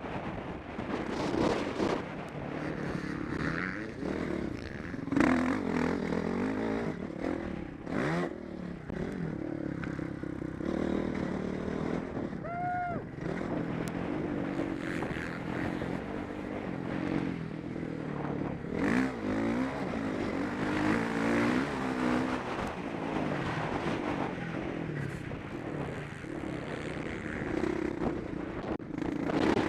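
Motocross bike engine heard on board, revving up and down again and again as it is ridden hard around the track. A few sharp knocks stand out, the loudest about five seconds in.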